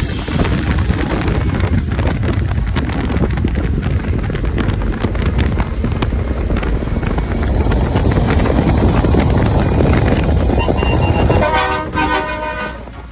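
Heavy truck running loud, with a dense, low engine and road rumble that swells towards the middle. Near the end the rumble drops and a multi-tone air horn sounds for about a second.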